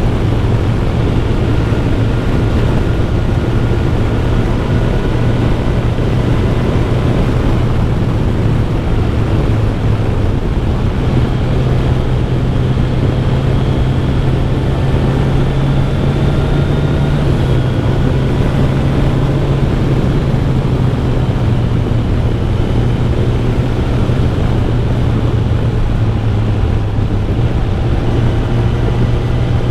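Kawasaki Ninja 1000SX inline-four engine running at highway cruising speed, a steady engine note that shifts slightly in pitch once or twice, with wind rush over the rider.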